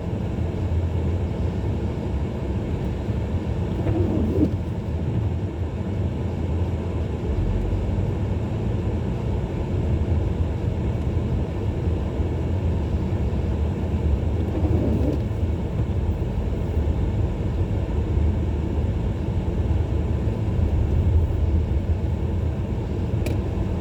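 Steady low rumble of a 2017 Ford Edge SEL driving slowly through snow, heard from inside the cabin: engine and tyre noise.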